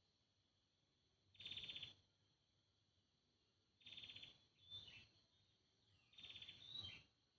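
Green junglefowl calling: short hoarse, buzzy calls, one about a second and a half in, a two-part call around four to five seconds, and another about six seconds in.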